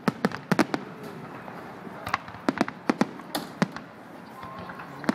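Fireworks display: sharp, irregular bangs of fireworks bursting, a quick cluster of about five in the first second and another half-dozen spread between about two and four seconds in.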